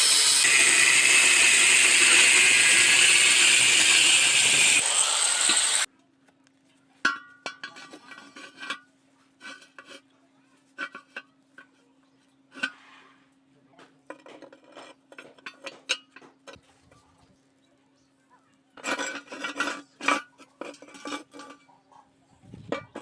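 A power tool cutting with a loud, dense noise, which stops abruptly about six seconds in. After it, metal parts and hand tools clink and tap now and then over a faint steady hum.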